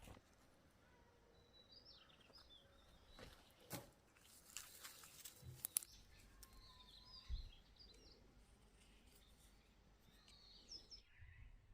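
Faint bird calls, short chirps coming three or four times, over near silence, with a few scattered soft knocks and clicks.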